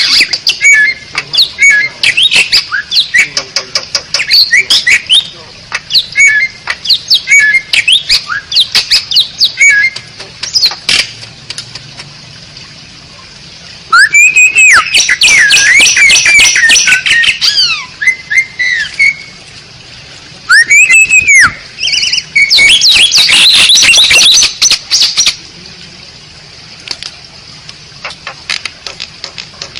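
Asian pied starling (jalak suren) singing: a varied run of sharp clicks, short whistled and chattering notes, with loud, dense bursts of squawky song about halfway through and again a little later.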